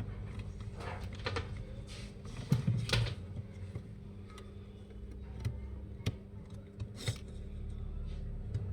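Scattered small clicks and knocks of tools and small parts being handled during an electronics repair, the busiest cluster about two and a half to three seconds in, over a steady low hum.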